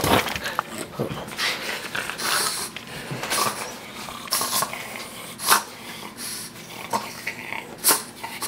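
Boston terrier breathing noisily and snuffling in short irregular bursts, with two sharper snorts, one past the middle and one near the end.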